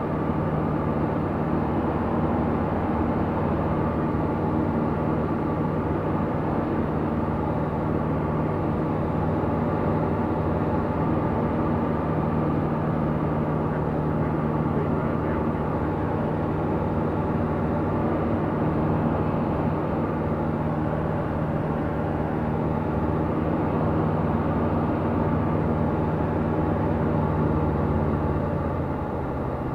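Tecnam P96 Golf's Rotax 912 flat-four engine and propeller droning steadily in flight. Near the end the drone drops in pitch and level as the power is brought back.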